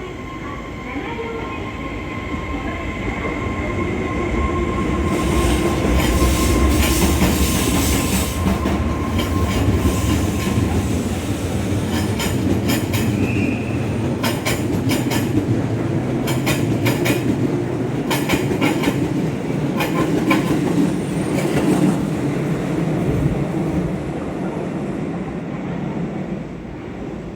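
A JR Kyushu 811 series electric multiple-unit train pulls out of the station, its running noise growing louder as it gathers speed. From about nine seconds in, the wheels click over rail joints and points in quick groups.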